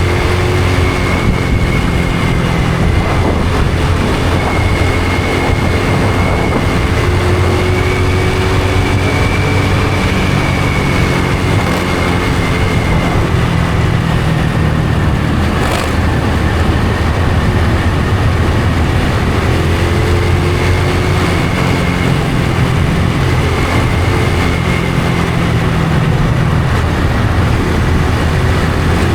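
Honda Supra X 125 FI motorcycle's single-cylinder four-stroke engine running steadily under way, its note rising and falling gently with the throttle.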